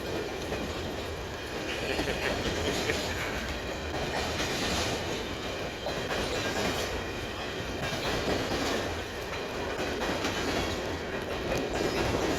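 Empty CP Rail coal train's hopper cars rolling past, wheels and cars rumbling and clattering steadily over the rails.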